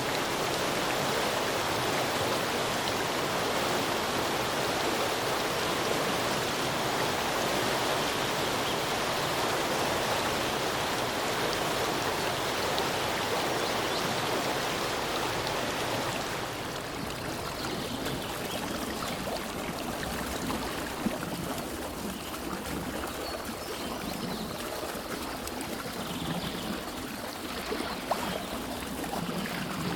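Running water, a stream or small waterfall, as a steady even rush. A little over halfway through it changes to a quieter, softer water sound with a few sharp clicks.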